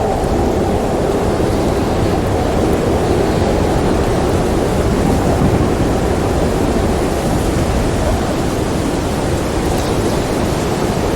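Storm wind blowing steadily, a dense low rush with a faint wavering howl.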